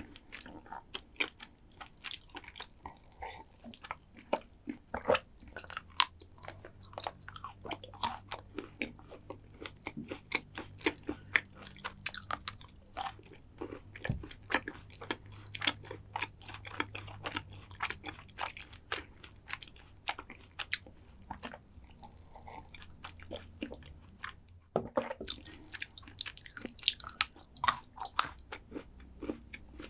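Close-miked chewing and biting of chocolate dessert, with many small crisp crunches and wet mouth sounds. There is a brief pause about twenty-five seconds in.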